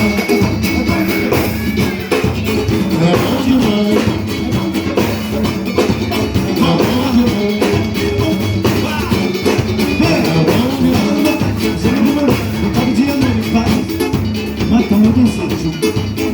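A live pagode band playing samba, with percussion and plucked strings and some singing, picked up by a microphone in the room rather than from the sound desk.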